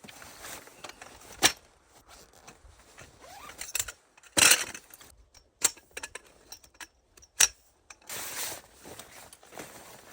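Camping gear being handled: a few sharp clicks and knocks with short rustling bursts in between.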